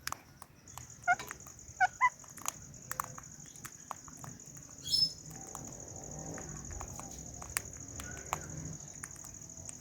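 Short, sharp bird calls: three close together near the start and a louder shrill squawk about halfway, among scattered clicks, over a steady high-pitched hum.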